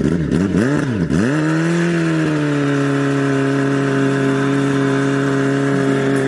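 An engine revved up and down quickly about three times, its pitch dipping and rising, then held at a steady high speed.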